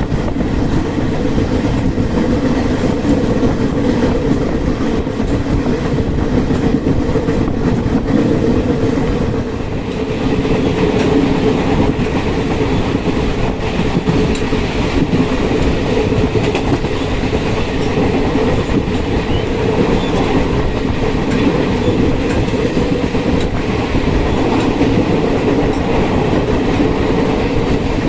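Train running at speed on the track: a steady, loud rumble of wheels on rail with the clickety-clack of rail joints.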